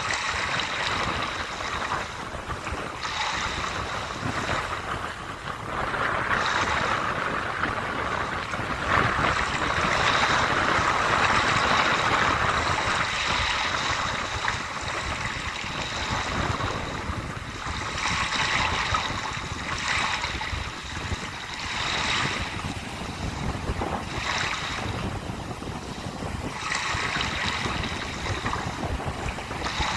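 Sea waves washing onto the shore, swelling and easing every few seconds, with wind rumbling on the microphone.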